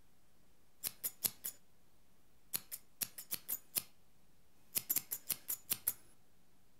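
Barber's scissors snipping hair at the sideburn, in three quick runs of crisp snips: about four near the first second, then about seven, then about eight near the end.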